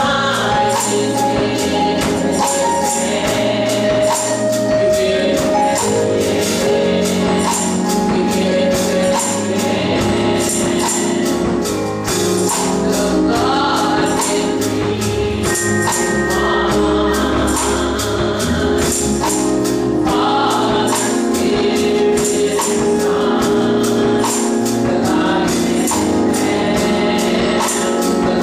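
Gospel music: a church choir singing over sustained held chords, with a tambourine jingling on a steady beat.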